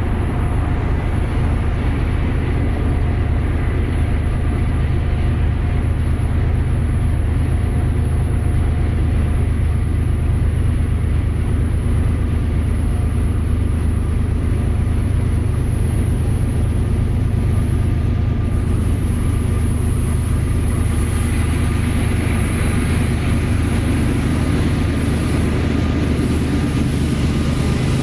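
Freight train passing, with a diesel locomotive engine running low under the steady noise of the train rolling by.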